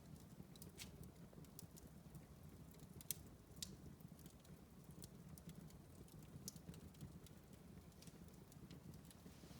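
Wood fire burning in a fireplace, soft and low: a faint steady rumble of flames with scattered crackles and pops, the two loudest about three seconds in and half a second apart.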